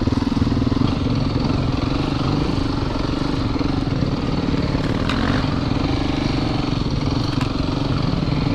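Yamaha YZ450FX dirt bike's single-cylinder four-stroke engine running steadily at an even pitch while riding a trail.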